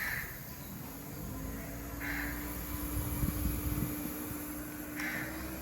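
Small DC motor in a battery mist fan running with a steady hum, joined by three short high-pitched sounds spaced a couple of seconds apart.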